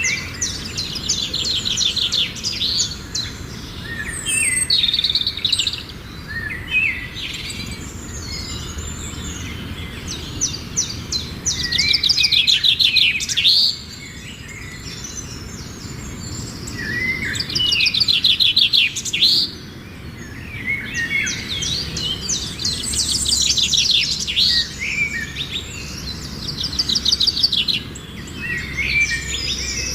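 Small birds chirping and singing, with repeated fast trills and shorter chirps between them, over steady low background noise.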